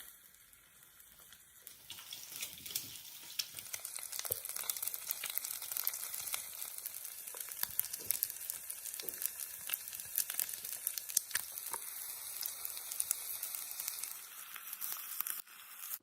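Food frying in a pan, a steady sizzle thick with small crackles and pops. It comes up about two seconds in and cuts off abruptly at the end.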